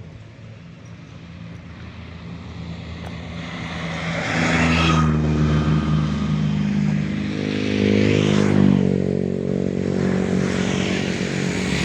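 A motor vehicle's engine comes close and runs loudly nearby, swelling about four seconds in, with a steady low drone.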